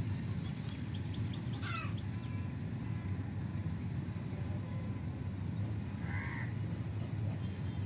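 Outdoor ambience with a steady low rumble, over which a bird calls twice: a quick sweeping call a little under two seconds in and a short rounded caw-like call about six seconds in.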